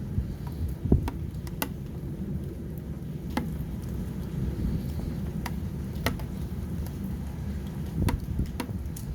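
Storm rain with a steady low rumble of wind buffeting the microphone, and scattered sharp ticks of drops striking close by.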